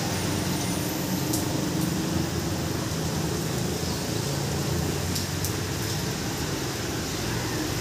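Steady rain shower falling, an even hiss with a low rumble underneath and a few faint ticks.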